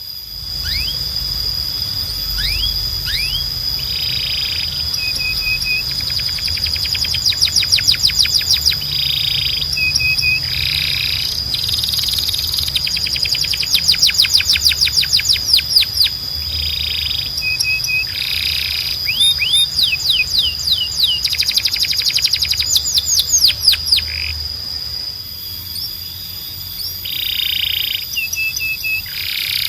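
Canary singing: runs of very fast rolling trills, several seconds each, broken up by short repeated chirped phrases.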